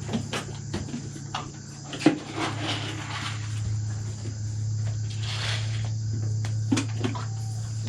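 Insects chirring steadily under a low, even hum, with scattered knocks and a couple of short rustles.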